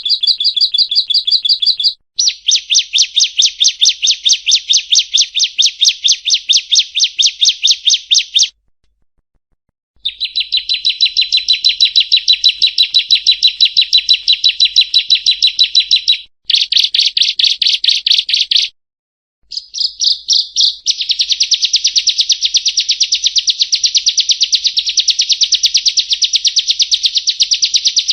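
Bar-winged prinia (ciblek kristal) singing: long, fast trains of sharp, high, evenly repeated notes, the rapid 'nembak' rattling song used as a tutor recording. The song breaks off twice, for over a second about a third of the way in and briefly about two-thirds in.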